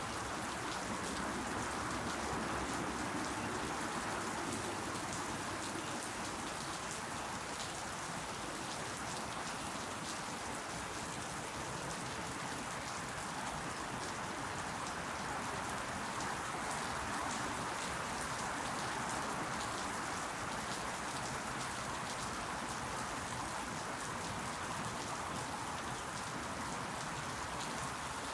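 Steady rain falling, with many small drops pattering on leaves.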